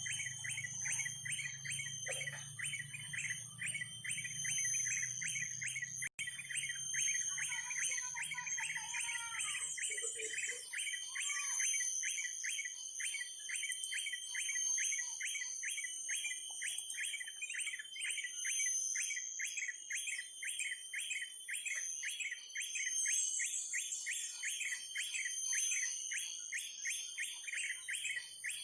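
Rapid, evenly repeated high chirps, several a second, going on without a break, over a constant very high-pitched whine. The sound drops out for an instant about six seconds in.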